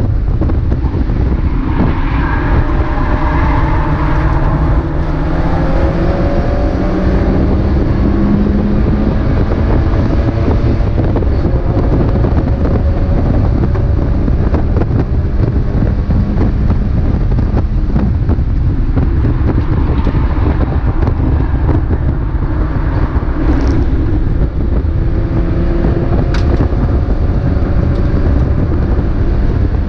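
Mazda MX-5 race car engine heard onboard at racing speed under heavy wind and road noise, its note rising and falling as it revs and changes gear, twice.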